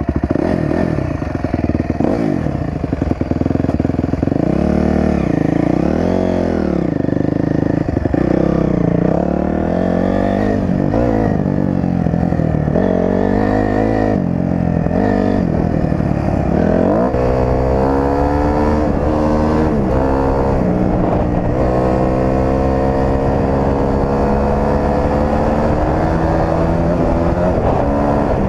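Dirt bike engine riding over rough trail, the revs rising and falling again and again with the throttle. About two-thirds of the way through it settles into a long, steady climb in pitch as the bike accelerates.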